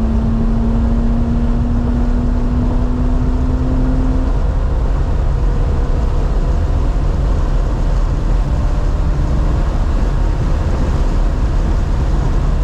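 2018 BMW M3 Competition's twin-turbo inline-six pulling under load, heard inside the car over loud road and wind rumble; its note climbs slowly for about four seconds, then drops out and leaves mostly the rumble.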